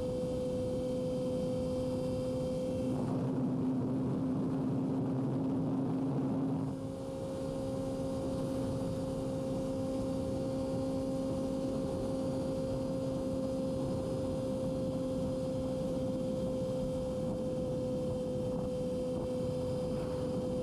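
Yamaha R6 sport bike's inline-four engine running steadily at one high pitch while riding, with a rushing noise over it. The rushing noise grows louder from about three to seven seconds in, then there is a brief dip in level and the engine holds its note again.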